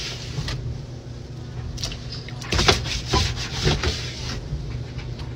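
Knocks and clatter of cleaning and handling parts of a washing machine, over a steady low hum.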